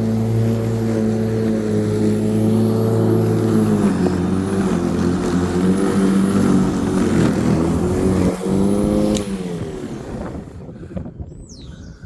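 Black & Decker 1800 W electric rotary lawnmower motor running with a steady hum. Its pitch drops slightly about four seconds in, and about nine seconds in it winds down with a falling pitch and stops.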